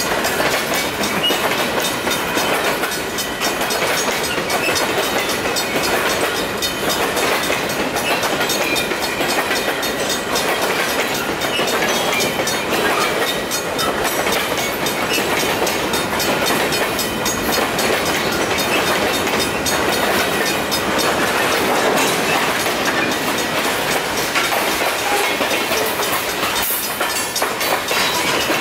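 Freight cars rolling steadily past over a grade crossing, their wheels clattering on the rails. The crossing signal's bell rings on underneath.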